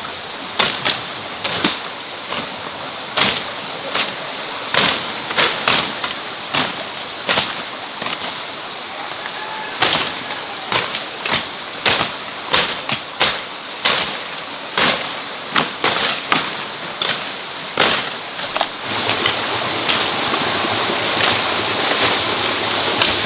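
Repeated sharp knocks or strikes at an uneven pace, about one to two a second, over a steady rushing noise like running water.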